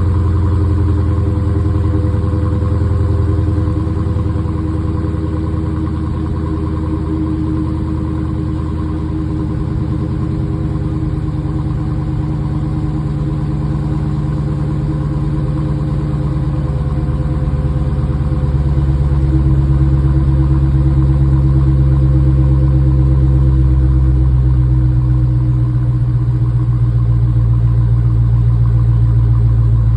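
Dodge Challenger engine idling during a cold start, a steady car engine note whose low hum shifts slightly and grows a little louder partway through.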